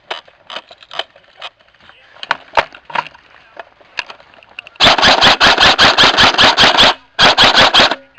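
Airsoft guns firing: scattered faint pops from other players, then about five seconds in a loud, close airsoft rifle fires a rapid full-auto burst of about two seconds, followed after a short break by a second, shorter burst.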